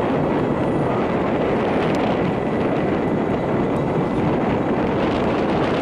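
A vehicle running close by: a loud, steady rumble.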